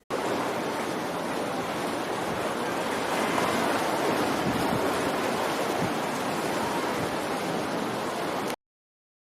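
Steady rushing noise like running water, with no clear bird calls, starting suddenly and cutting off sharply near the end.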